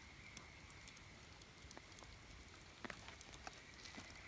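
Wood campfire crackling faintly, with scattered sharp pops and ticks at irregular intervals.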